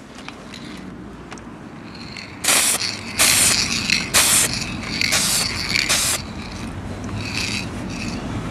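Aerosol spray can of automotive base-coat paint sprayed in five short hissing bursts, each about half a second long, in the middle of the stretch. Wind rumbles on the microphone, growing near the end.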